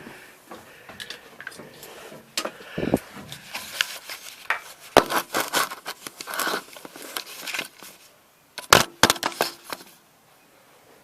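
Scattered clicks, knocks and scraping from something being handled, with a cluster of loud clicks about nine seconds in; no engine is running.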